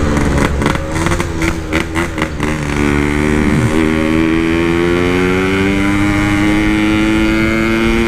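Yamaha RX-King single-cylinder two-stroke engine on an aftermarket Packing Power exhaust, ridden hard. A few short, uneven throttle bursts come first, then a long pull in gear with the pitch rising steadily.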